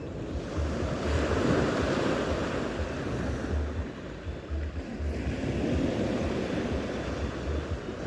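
Sea waves breaking twice, each wash swelling and fading over a couple of seconds, with wind buffeting the microphone.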